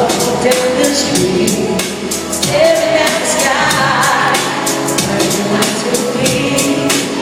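Live pop music from an arena concert: a girl group's female voices singing over a backing track with a steady drum beat.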